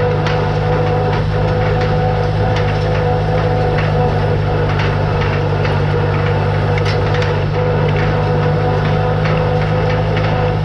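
Tractor engine running steadily while pulling a hay rake, with the rake's mechanism clattering in irregular ticks and knocks over the engine drone.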